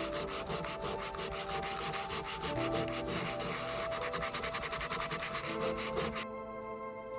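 Fast back-and-forth rubbing or scrubbing against a surface, several strokes a second, that stops abruptly about six seconds in, over soft background music.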